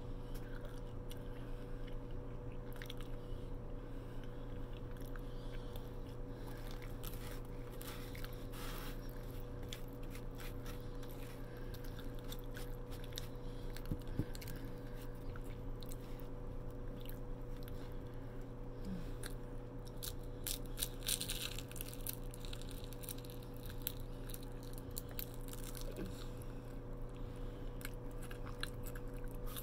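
Close-up biting, crunching and chewing of crispy fried lumpia (spring rolls), with crackling bites that come thickest about a quarter of the way in and again about two-thirds through. A steady low hum runs underneath.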